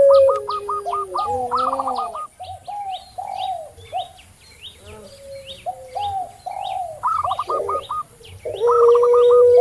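Doves calling together: puter pelung (collared dove), perkutut (zebra dove) and tekukur (spotted dove). A long, held coo sounds at the start and again about nine seconds in, and runs of quick rolling notes and shorter coos fill the middle. Small birds chirp in high notes throughout.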